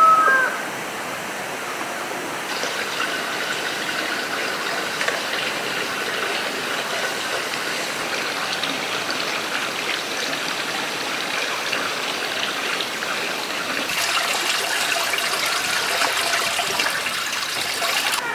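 Running water, a steady rushing sound that grows a little louder about two and a half seconds in and again in the last few seconds.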